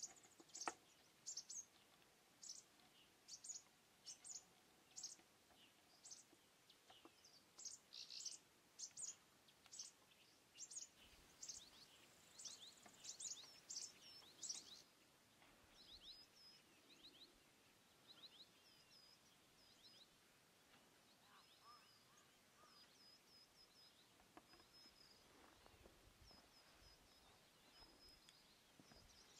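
Faint small-bird chirping against near silence: a quick series of short high chirps for about the first half, then thinner, softer chirps to the end.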